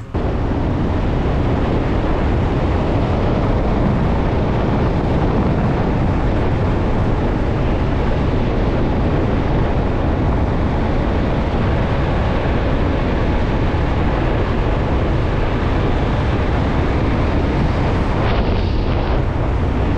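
Steady rush of wind buffeting the microphone and road noise from a motorcycle riding at speed.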